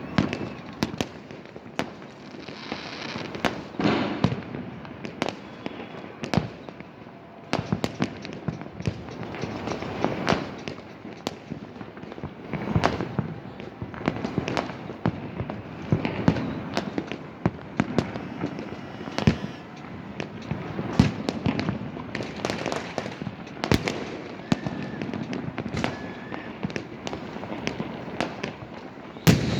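Fireworks and firecrackers going off continuously: a steady run of irregular sharp bangs and pops, several a second at times, over a constant crackle.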